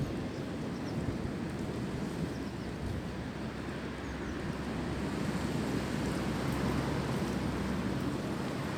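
Wind blowing through tree branches: a steady rushing with a low rumble of wind on the microphone, swelling a little past the middle.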